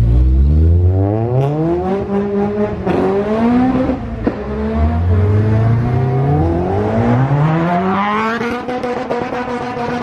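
A car accelerating hard, its engine revving up through the gears: the pitch climbs, drops sharply at a gear change about three seconds in and again about four seconds in, then climbs again and levels off near the end.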